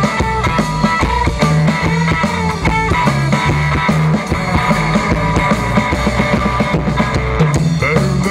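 Blues band playing an instrumental stretch between sung lines: drum kit keeping a steady beat, walking bass and electric guitar.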